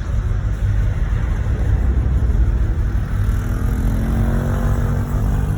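1986 Chevrolet Monte Carlo SS V8 running under way with a steady low rumble, the revs rising in the second half as it accelerates. The engine has a knocking connecting rod in its bottom end.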